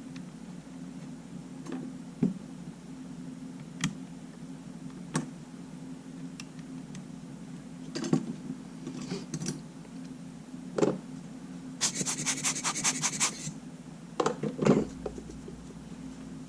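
Small clicks and taps from handling camera parts during disassembly work, scattered every second or two, with a quick rattling run of clicks about twelve seconds in, over a steady low hum.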